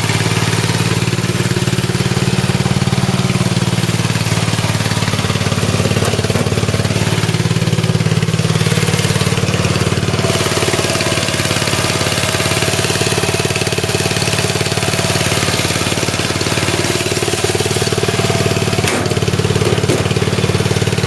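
Yard Man lawn tractor's 14.5 hp OHV Briggs & Stratton engine running steadily, with a single sharp click near the end.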